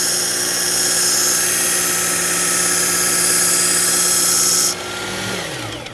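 Work Sharp electric belt knife sharpener running with a 120 grit belt, a steady motor whine under a loud high hiss of the knife edge grinding on the belt. The hiss stops suddenly near the end as the blade comes off, and the motor winds down with a falling pitch as it is switched off.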